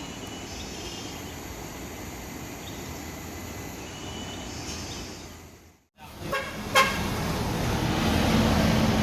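Vehicle engines and road noise, with a short horn toot about seven seconds in, after which an engine runs louder with a steady hum.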